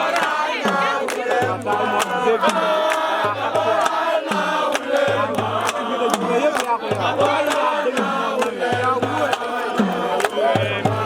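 Group of male voices chanting and singing together over drums: a low beat repeating about every second or two, with sharp, quick drum strikes between.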